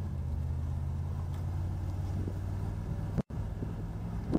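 The Pontiac's freshly installed 327 Chevy small-block V8 running steadily, heard from inside the car. The sound cuts out for a split second about three seconds in, and the engine sounds less even afterwards.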